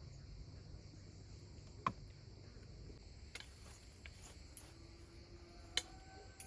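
Faint steady high hiss with two sharp clicks about four seconds apart, and a short steady tone near the end.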